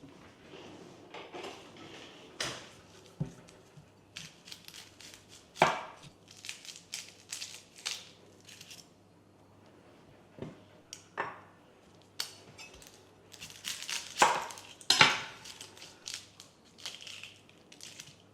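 Kitchen work with dishes and utensils: irregular knocks, clinks and short clatters with quiet gaps between, the loudest cluster about two-thirds of the way through.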